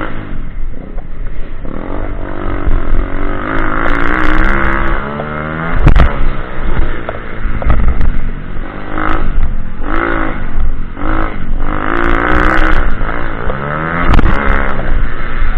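Pitbike engine revving up and falling back again and again as the throttle is worked, with a sharp knock about six seconds in.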